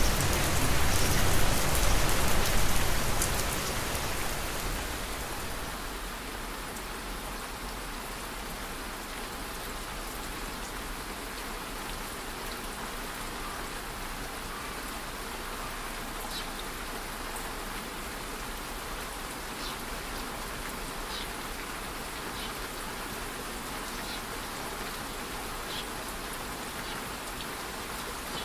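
Steady rain, heavier for the first few seconds, then easing about five seconds in to a quieter, even rain. A few faint ticks come through now and then.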